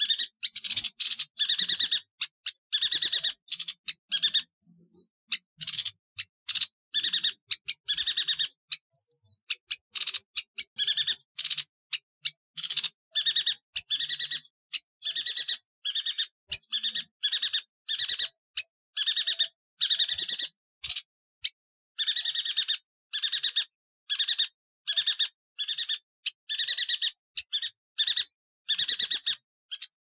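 Yuhina calling: rapid runs of short, sharp, high chirps, coming in clusters with brief pauses between them.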